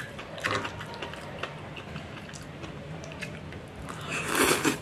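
A person chewing a mouthful of egg and enoki mushroom omelette, with light clicks of a fork and knife against the tray. There is a louder noisy mouth sound near the end.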